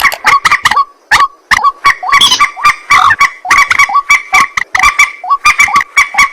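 White-breasted waterhen (ruak-ruak) calling: a fast, continuous run of short clipped notes, about four a second, each with a ringing tone.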